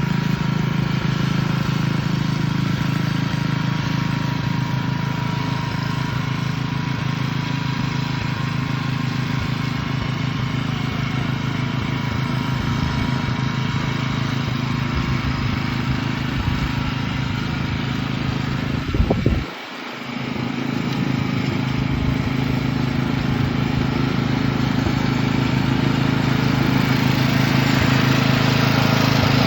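Petrol lawn mower engine running steadily under load. About two-thirds of the way through, the sound drops off sharply for under a second, then picks up again.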